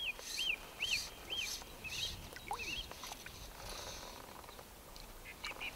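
A small songbird singing: four high arched notes about half a second apart, then a short twitter, and a few more quick notes near the end, over a faint outdoor hiss.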